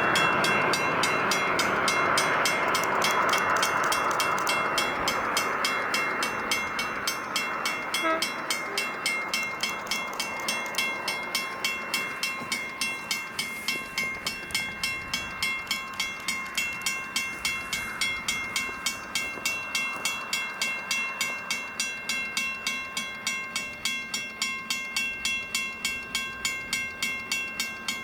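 Western Cullen Hayes 333 mechanical crossing bell ringing steadily, about three strikes a second, as the level crossing is activated. A passing train is heard under it, loudest in the first few seconds and then fading.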